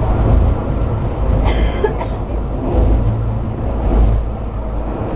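Penang Hill funicular car running downhill on its track, heard from aboard as a steady low rumble.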